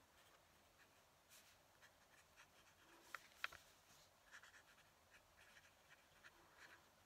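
Fountain pen nib scratching faintly on paper in short, irregular strokes. Two sharp clicks about three seconds in stand out above the writing.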